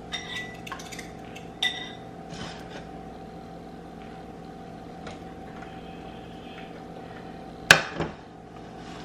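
Kitchen clatter of cookware and utensils: a few short ringing clinks early on, then lighter knocks, and one loud sharp knock near the end, over a steady hum.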